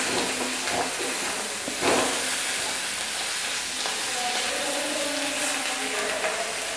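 Diced boiled potatoes and spices sizzling in hot oil in a kadhai while a spatula stirs and turns them, with one louder stroke of the spatula just before two seconds in.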